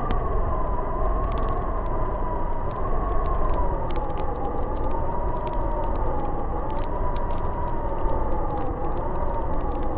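Snowstorm wind howling: a steady rush with a wavering, whistling tone that slowly slides up and down in pitch, and scattered faint ticks above it.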